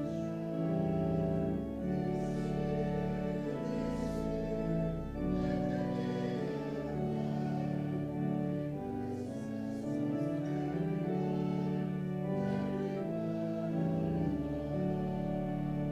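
Slow instrumental church music: sustained chords on a keyboard instrument, each held a second or two before moving to the next.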